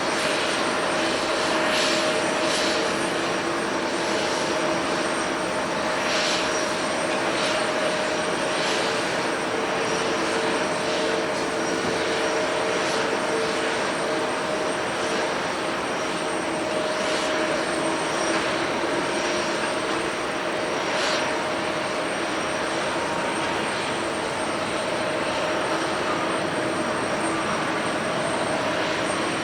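Jet airliner engines running, a continuous steady rush with a steady whine in it and no clear rise or fall.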